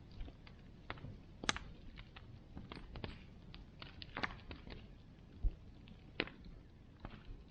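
Bonfire burning: wood crackling and popping at irregular intervals over a low rumble of flame, with a few sharper pops standing out.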